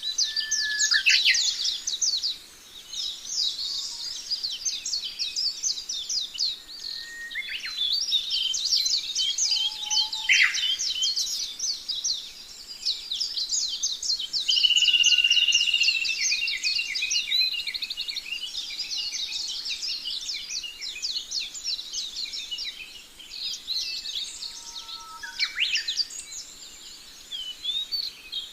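Budgerigar warbling and chattering: a fast, nearly continuous stream of high chirps and squeaks, with a few sharp downward calls and one longer held whistle about halfway through.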